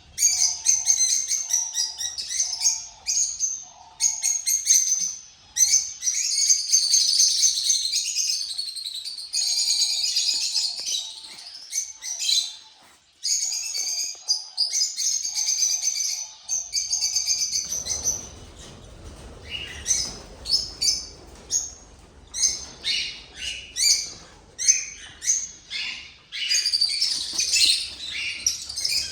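Several small cage birds chirping and calling in quick repeated bursts, with a lower pulsed call among them in the first half. About halfway through, a rustling, handling noise joins in as a nest box is worked.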